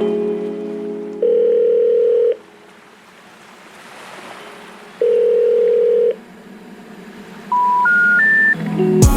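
Telephone line tones: two steady low beeps about a second long, a few seconds apart, then three short beeps rising in pitch, the special information tone that signals a call cannot be completed.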